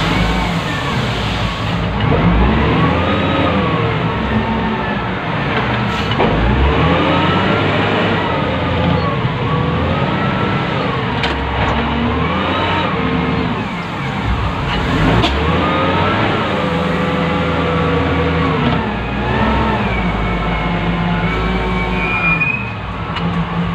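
Wheel loader's diesel engine heard from inside the operator's cab, revving up and dropping back again and again as it works through loading cycles. A higher whine rises briefly near the end.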